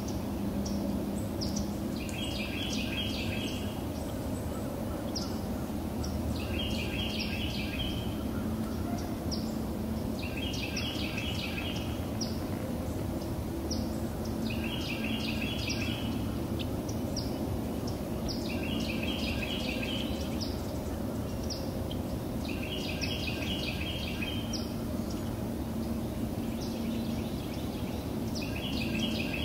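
A songbird singing the same short phrase of quick repeated notes about every four seconds, over a steady low background noise.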